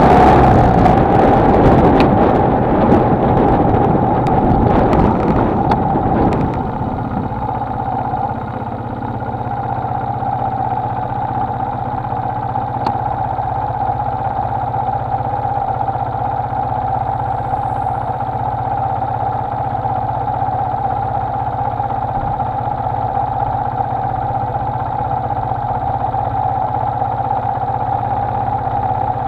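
Honda XLR125R's single-cylinder engine running, with heavy wind and road noise over it for the first six seconds or so. After that the noise drops away, leaving a steady, even engine note.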